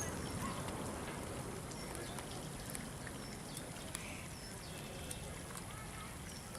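Steady outdoor background noise with scattered short bird chirps.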